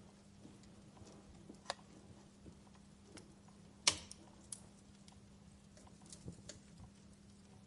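Wood fire burning in a fireplace: scattered sharp crackles and pops from the burning logs, the loudest pop just under four seconds in, over a faint steady low hum.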